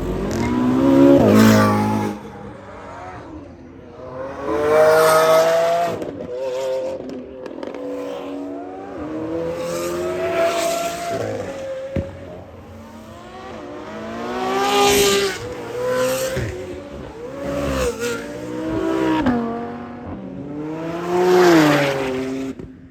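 A string of supercars accelerating hard past one after another. Each engine revs up in rising pitch, drops as it shifts, and climbs again, with a few sharp cracks among the passes.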